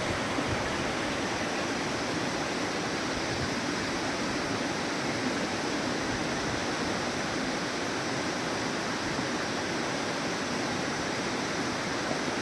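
Waterfall: water falling and splashing as a steady, unbroken rushing noise.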